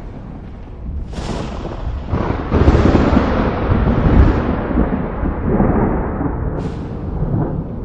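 Thunder: a sharp crack about a second in, then a long, heavy rolling rumble that builds and slowly fades, with another crack near the end.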